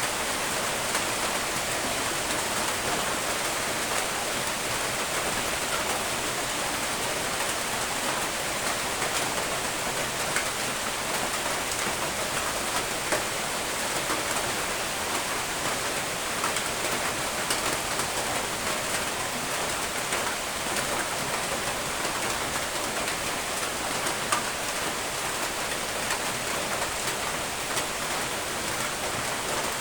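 Steady rainfall: a dense, even hiss of rain on surfaces with scattered sharper drops, and no thunder.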